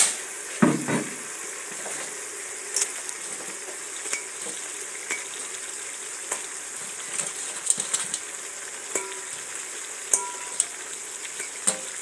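Chicken pieces sizzling as they fry in a pot, with a utensil stirring and clicking against the pot. There is a louder knock about a second in.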